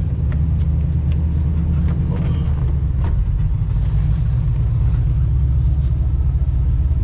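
A car on the move, giving a steady low rumble of engine and road noise.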